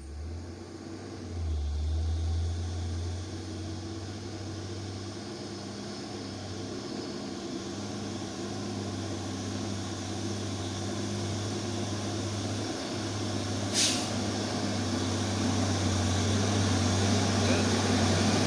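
Loaded coal truck's diesel engine labouring up a long climb at full power, a steady low drone that slowly grows louder as the truck draws closer. A brief hiss comes about fourteen seconds in.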